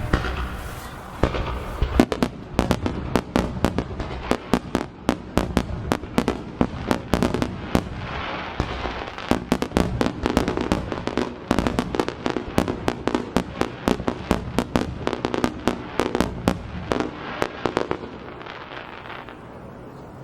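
Fireworks display: a rapid barrage of aerial shell bursts, several sharp bangs a second with crackling between them, dying away near the end.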